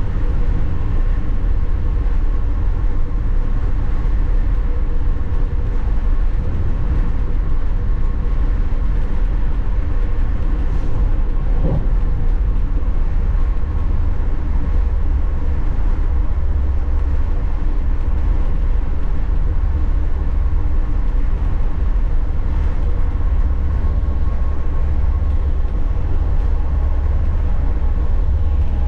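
FlixTrain passenger train running, a steady low rumble with a faint constant hum; a soft knock about twelve seconds in.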